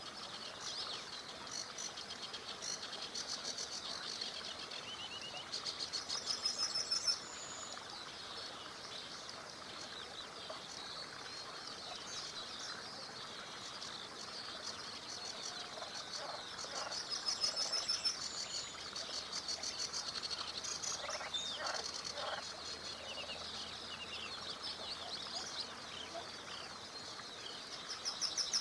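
Several wild songbirds singing at once in summer, with one loud song, a fast run of repeated notes, coming three times about ten seconds apart. Beneath them is a faint steady rush of a small river.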